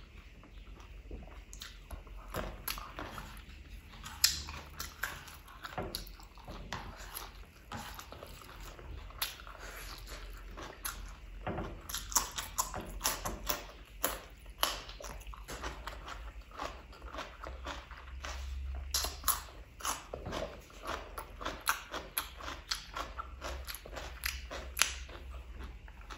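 Close-miked chewing and wet mouth smacking of rice and chicken curry, with crisp crunching bites into a raw cucumber stick about halfway through.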